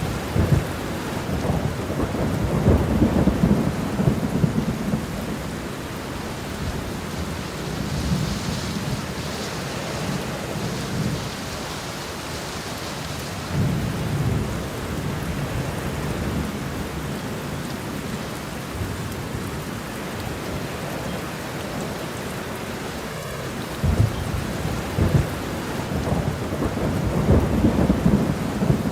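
Thunderstorm: steady rain with rolling thunder. Low rumbles swell and fade several times, loudest near the start and near the end, with a couple of sharp cracks a few seconds before the end.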